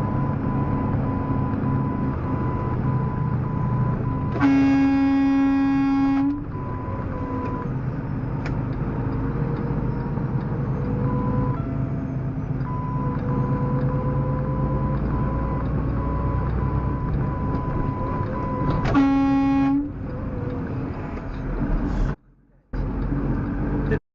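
A vehicle horn blasts twice over a steady engine drone: a long blast of nearly two seconds about four seconds in, and a shorter one near the end. A steady repeating beep sounds in the background throughout.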